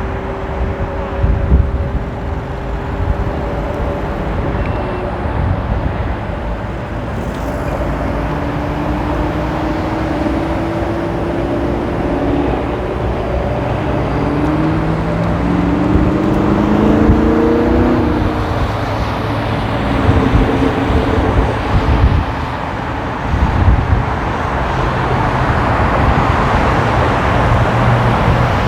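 Road traffic and wind heard from a moving electric scooter: a steady rush of road noise, with cars passing close by. Around the middle, several engine tones rise in pitch together as a nearby vehicle accelerates.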